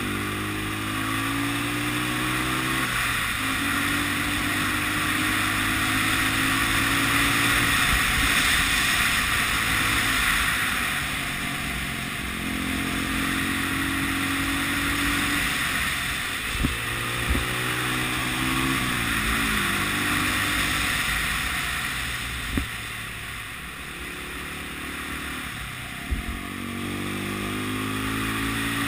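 Honda CB 250 RS single-cylinder four-stroke motorcycle engine under way. It climbs in pitch, drops back at gear changes a few times and holds steady between them, with wind rushing over the microphone and a few brief knocks.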